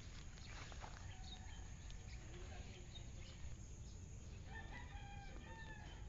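Faint, distant bird calls over a low steady rumble, with one long drawn-out call from about four and a half seconds in.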